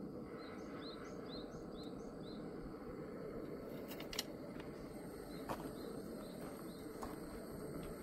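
Faint outdoor background with a bird giving short, repeated chirps about twice a second, one run of five near the start and a shorter run later, and a few light clicks in between.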